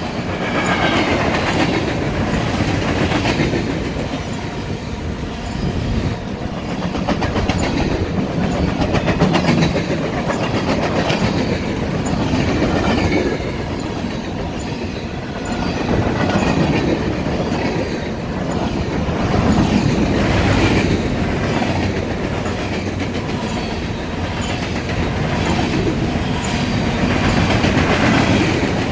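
BNSF manifest freight train rolling past, its wheels clacking over the rail joints, the noise swelling and easing every few seconds.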